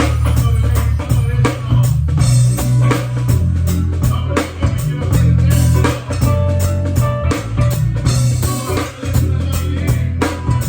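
A band playing: drum kit, guitar and heavy bass guitar.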